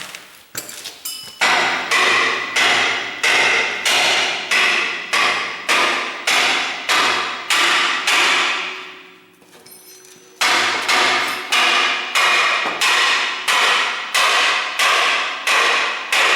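Hammer striking steel in a steady rhythm, about one and a half blows a second, each blow ringing out. The blows stop for about two seconds past the middle, then resume.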